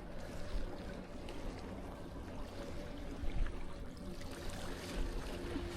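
Seawater washing and lapping at the shore, with a low rumble underneath.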